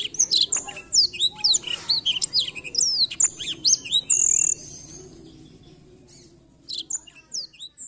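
Blackthroat (black-throated canary) singing a fast, varied song of chirps and downward-slurred whistles, breaking off about halfway through and resuming with a few notes near the end.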